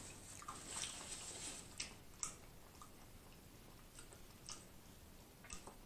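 Faint close-up chewing and mouth sounds, with scattered small wet clicks.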